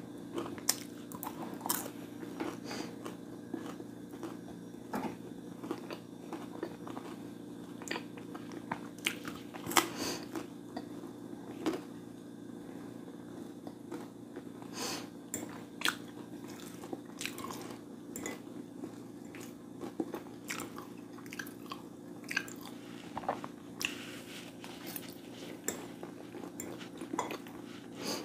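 Close-miked eating: biting and chewing food, with irregular crunches and mouth clicks over a steady low hum.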